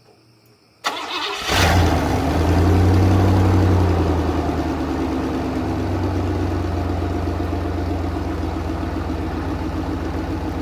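Cadillac HT 4100 V8 cranked by the starter about a second in and catching. It runs at a raised speed for a couple of seconds, then settles to a steady idle through a loose, unclamped exhaust setup that is leaking at its joints.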